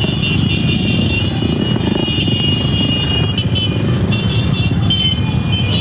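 Motorcycle engines running with a steady, fluttering low rumble and a thin high whine over it.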